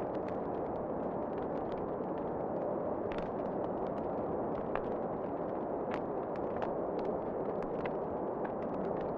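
Wood fire crackling in a fireplace: irregular sharp pops and snaps scattered over a steady low rushing noise.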